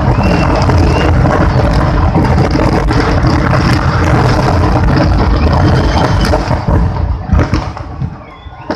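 A dense, continuous barrage of firecrackers going off, a loud unbroken crackle and rumble with sharper cracks through it, that dies down shortly before the end.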